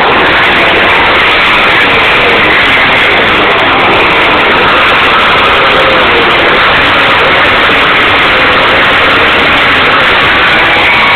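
Two-stroke motorcycle engines running loud and steady.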